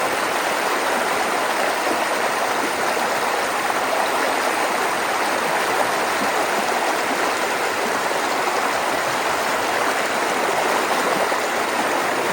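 Floodwater rushing steadily through a road culvert.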